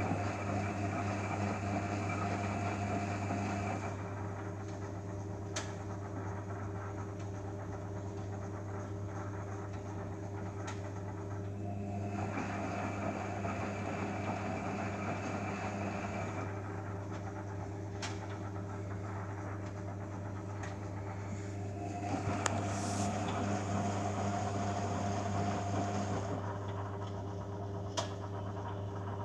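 Beko Eco Care WMA 1510 W washing machine's drum motor turning in bursts of about four seconds roughly every ten seconds, with a steady low hum between and a few sharp clicks. This is the third rinse running with no cold water let in, a fault.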